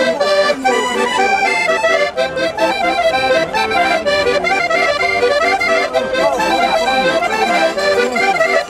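Accordion playing a traditional folk tune, with chords and a moving melody.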